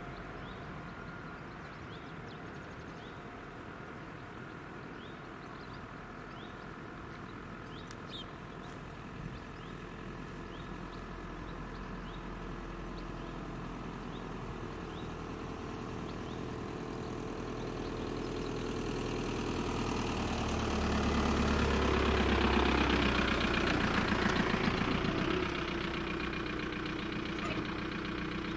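A motor vehicle's engine running steadily, growing louder to a peak about twenty seconds in, then easing off. Faint short chirps repeat about once a second during the first third.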